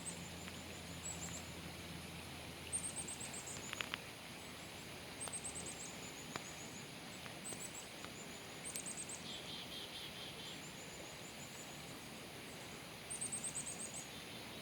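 Wild songbirds singing: short, high-pitched runs of rapid chirping notes recurring every second or two, with a lower, quicker trill about ten seconds in.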